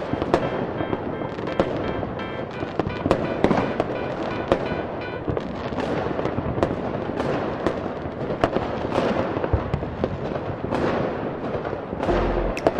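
Fireworks display: a rapid, irregular string of sharp bangs and crackles over a continuous haze of bursts, with music playing underneath.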